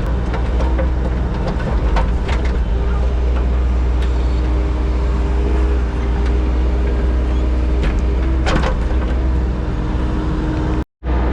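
Engine of a compact earthmoving machine running steadily, heard from inside its cab, with a few sharp clunks of the machine working. The sound cuts out for a moment near the end.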